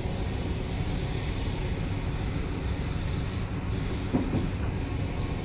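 A British Rail Class 317 electric multiple unit running along the line, heard from on board: a steady low rumble of wheels and running gear, with a single knock about four seconds in.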